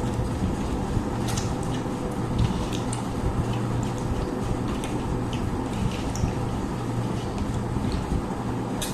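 Small irregular clicks and smacks of people eating a rice-and-curry meal, over a steady low background hum.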